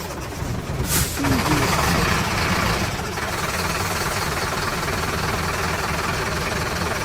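An engine running steadily with a rough, even rumble, with one sharp click about a second in.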